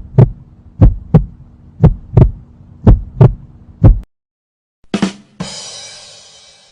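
Heartbeat sound effect: a low 'lub-dub' double thump repeated four times, about one beat a second. Then a short hit, followed by a fading, hissing crash.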